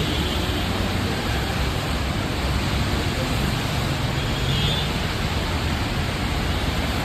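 Heavy rain pouring down in a steady, dense hiss, with a low rumble of road traffic underneath.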